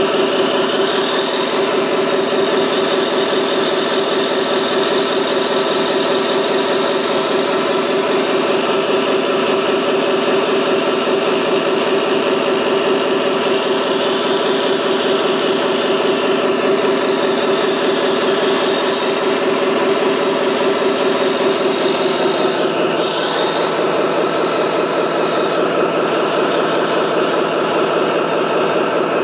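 Remote-controlled construction machine running with a steady, engine-like drone, with a short pitch sweep about 23 seconds in.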